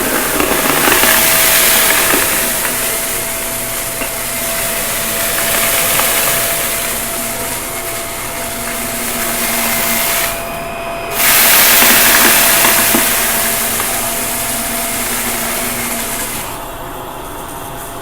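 Shark vacuum cleaner running: a steady motor whine under a loud rushing of air that swells and fades as it is worked over the floor. About ten seconds in, the rush cuts out for about a second and then returns, and it eases off near the end.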